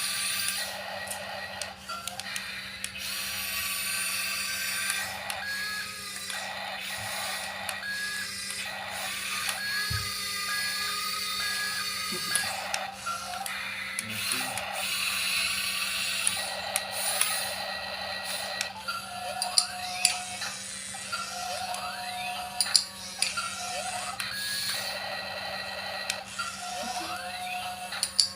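Remote-control toy excavator running: electronic tones and small motor whirring, with sharp clicks in the second half.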